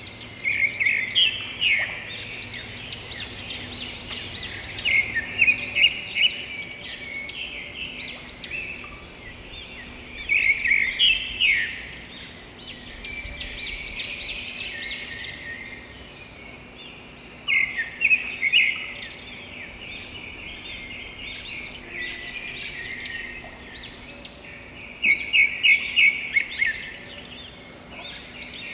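Birds singing and chirping in repeated phrases of quick, high notes, with louder bursts of rapid chirps every few seconds over a faint steady hum.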